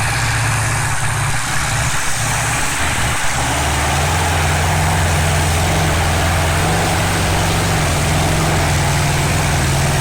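Pulling tractor's engine running loud and steady, with a brief wobble in pitch about three seconds in.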